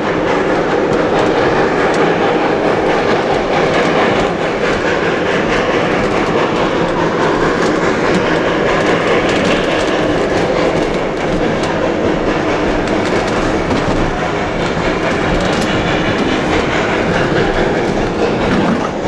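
Heritage railway train of the Black Hills Central Railroad rolling steadily along the track, a continuous rumble with the clickety-clack of wheels over rail joints.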